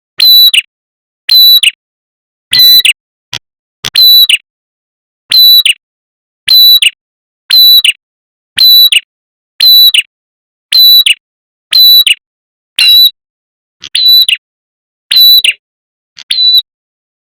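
Recorded lure call of a red-headed prenjak: a loud, short, high-pitched call repeated about once a second, used to draw in birds of its kind.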